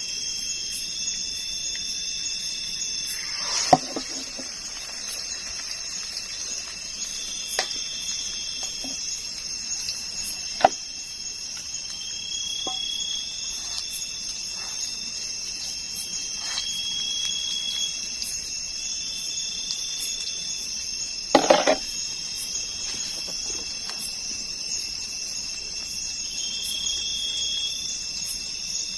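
Night insects chirring steadily in a high pitch, with a pulsing trill that comes and goes, over a faint crackle of noodles and egg frying in hot oil. A few knocks stand out, the loudest about four seconds in and again about twenty-one seconds in.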